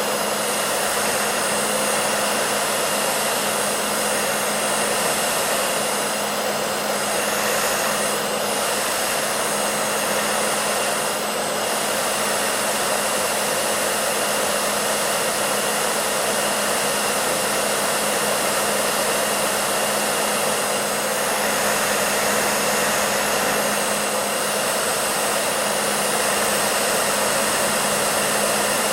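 Hair dryer running steadily: an even rushing of air with a low motor hum underneath, unchanging throughout.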